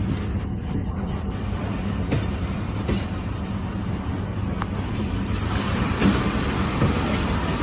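Passenger train running, heard from aboard the coach: a steady low rumble with a few sharp wheel clicks, growing louder and hissier about five seconds in.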